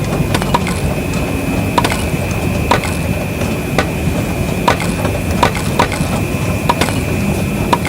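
A small electric motor of a miniature model machine running with a steady high whine and low rumble, under irregular sharp clacks of small hard pieces knocking together, about one a second.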